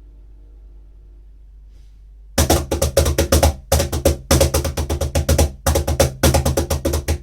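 A song playing: a soft held note, then about two and a half seconds in the full band comes in loudly with fast, driving drum hits over a steady low bass line.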